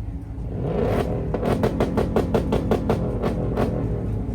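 A car engine revs up and bounces on a two-step launch limiter, firing a rapid, even string of pops and bangs, about six or seven a second.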